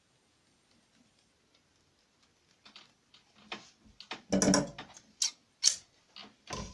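A quiet stretch, then a run of irregular clicks and knocks from handling the bobbin and bobbin case of an industrial flatbed sewing machine. The loudest knocks come just after halfway and again near the end.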